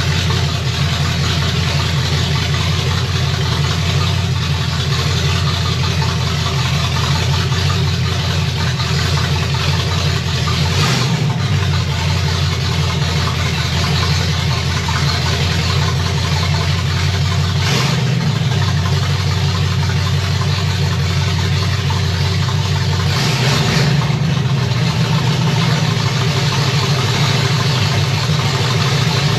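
Chevy 327 cubic-inch small-block V8 idling steadily as it warms up, its note shifting briefly about 11, 18 and 23 seconds in.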